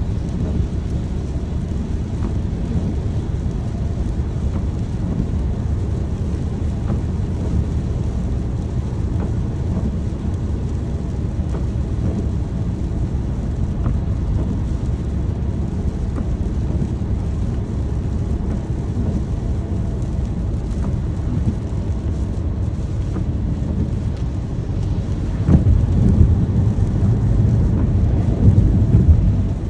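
Steady rainstorm noise with a constant low rumble; a louder low rumble swells near the end for a few seconds.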